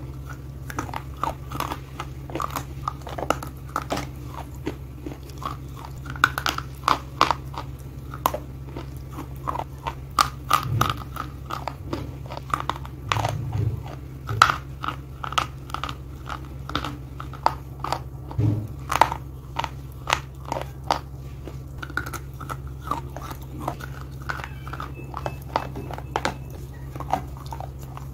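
Mouthfuls of brittle slate and clay being bitten and chewed: a steady run of sharp crunches, some louder snaps among them, with a steady low hum underneath.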